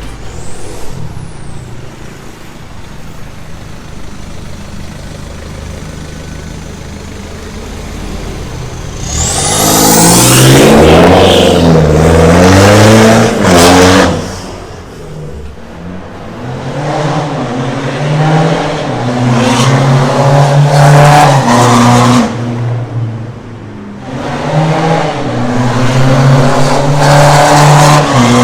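BMW F30 320d's four-cylinder turbodiesel, breathing through a custom stainless downpipe and 2.5-inch straight-through exhaust, running low and steady at first. About nine seconds in it starts accelerating hard in repeated pulls, its pitch climbing, dropping back and climbing again.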